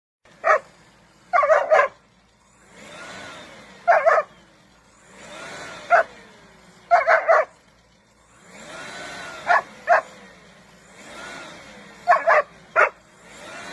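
A dog barking in short bursts of one to three sharp barks every couple of seconds, with a quieter noisy sound swelling and fading between the bursts.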